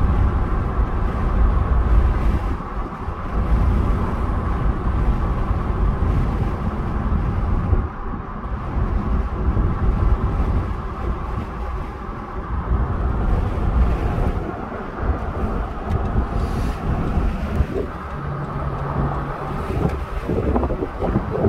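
Car driving along a road, heard inside the cabin: steady road and engine rumble with wind noise.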